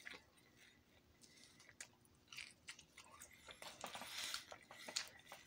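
A person chewing a mouthful of pizza: faint, irregular mouth clicks and smacks, busier and louder about four seconds in.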